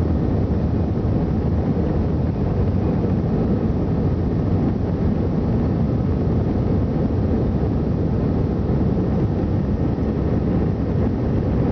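Steady engine and airflow noise heard inside the cabin of an Airbus A320 during take-off: a loud, even rumble, heaviest in the low end, with no change in pitch or level.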